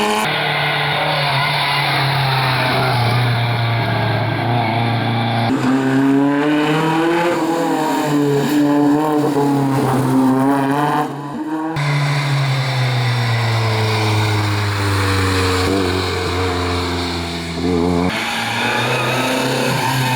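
Historic rally cars' engines revving hard on a stage, the pitch climbing and dropping with throttle and gear changes, in several short clips of different cars in turn.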